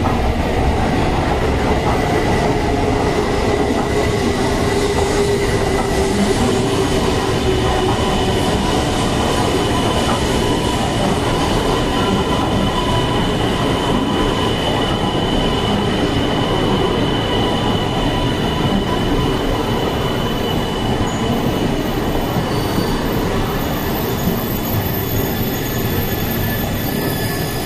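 E2 series Shinkansen train moving slowly along a station platform: a steady rumble with a few thin whining tones held through it.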